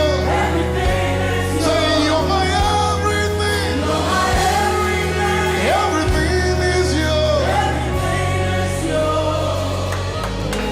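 Live gospel worship music: several voices singing long, sliding lines over held low chords that change every two seconds or so.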